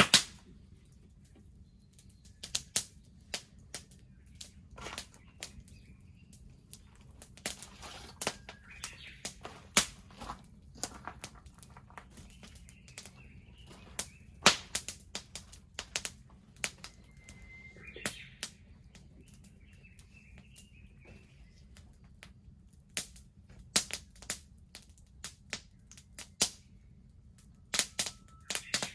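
Wood bonfire crackling, with irregular sharp pops and snaps, some much louder than the rest, over a low steady rumble of the flames. Birds chirp faintly every few seconds.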